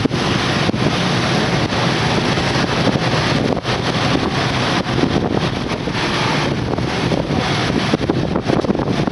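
Steady wind noise buffeting the microphone, a dense rushing hiss with small gusty dips, as on a moving motorbike.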